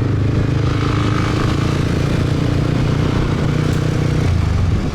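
Motorcycle engine running steadily under way, a low even hum that changes pitch about four seconds in.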